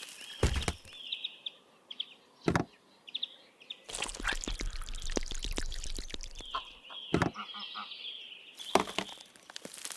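Birds calling repeatedly in short high chirps, with four sharp knocks and a few seconds of scraping, rustling noise in the middle.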